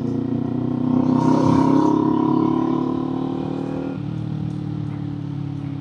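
Kawasaki Z400's 399 cc parallel-twin engine and exhaust under way on the road: the note rises as the throttle opens about a second in, then eases back, with a sudden change in the engine note about four seconds in.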